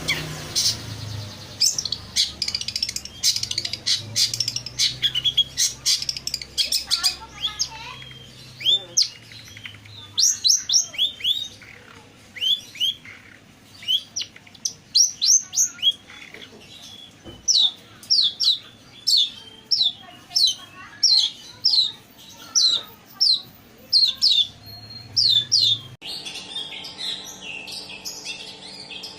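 Long-tailed shrike (pentet) singing loudly: fast series of short, sharp, high-pitched chirps in bursts separated by short pauses. Near the end the sound changes abruptly to a busier, noisier chatter over a low steady hum.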